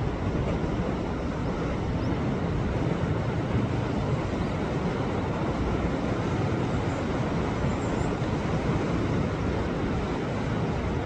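Sea waves surging against a rocky shore: a steady, low rushing of surf with no single crash standing out.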